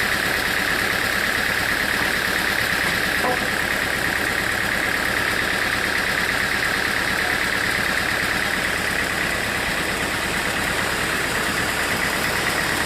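Sawmill machinery running steadily, an even mechanical drone with a constant high-pitched hum.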